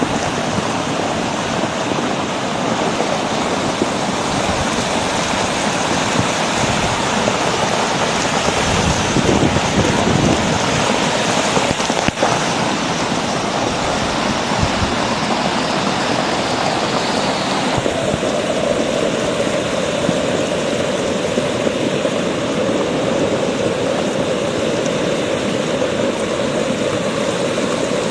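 Flash-flood torrent rushing steadily, a dense continuous noise of fast-flowing water. About eighteen seconds in, the hiss thins and a lower rush comes forward.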